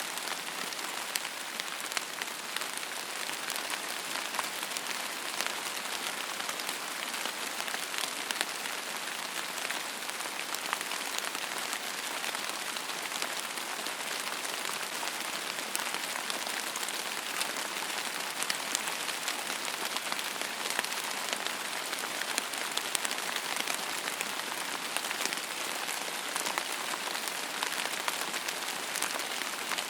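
Steady rain falling on a surface, a dense even hiss with many small drop taps and no change in intensity.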